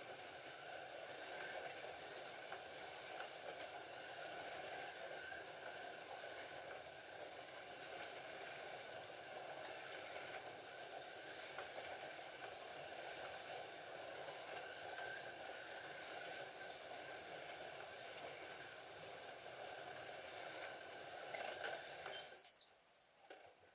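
Several Scalextric slot cars running laps together, their small electric motors and gears giving a steady whirr on the track. About 22 seconds in the sound cuts off suddenly with a short high beep.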